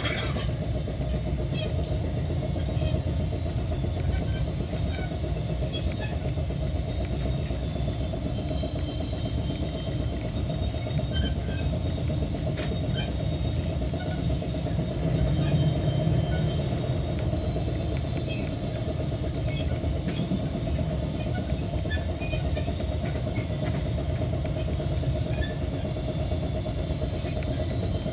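Metra commuter train running along the track, heard from aboard: a steady rumble of wheels on rail with scattered light clicks and rattles.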